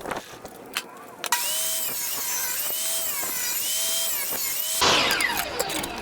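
An electric power tool, likely a drill, running for about three and a half seconds, its pitch dipping and recovering about once a second as it works. Near the end it gives way to a louder whine that falls in pitch.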